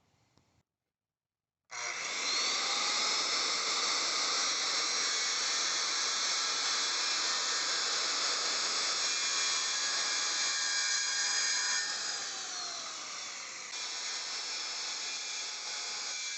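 A power saw starting up about two seconds in and running steadily as it cuts a plastic cutting board into pieces, with a brief drop in pitch and level near the end.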